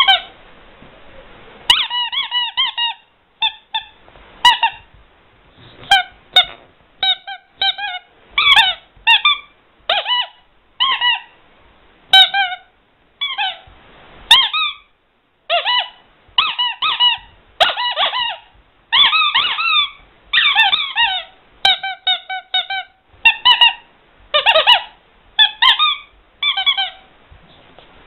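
Squeaky rubber toy squeezed over and over, giving short high-pitched squeaks in quick bursts of two to five with brief pauses between.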